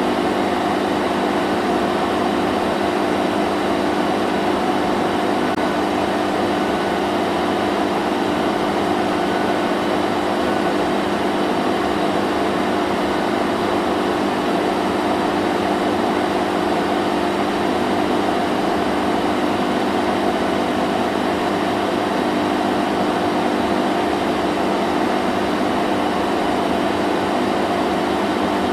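Vacuum cleaner running steadily: an unchanging motor hum of constant pitch over an even rush of air.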